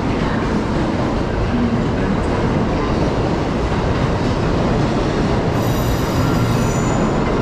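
Electric train running along a station platform: a loud, steady rumble, with a high squealing tone for about a second and a half near the end.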